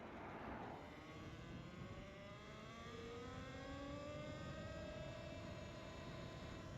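A motor speeding up: its hum rises slowly in pitch over about four seconds, then holds steady.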